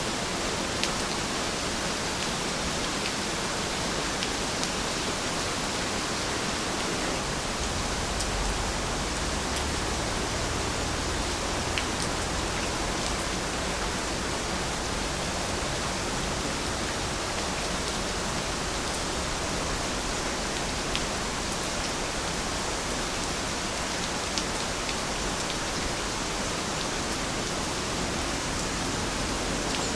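Heavy rain falling steadily, an even hiss with scattered drop ticks and a low rumble that swells for a few seconds about a third of the way in.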